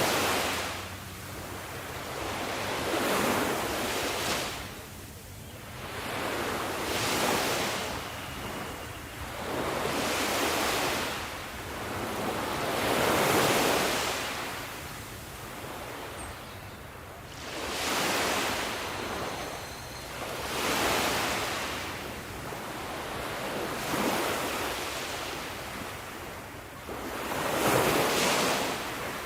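Sea waves breaking in a steady succession, each rush of surf swelling and fading away every three or four seconds.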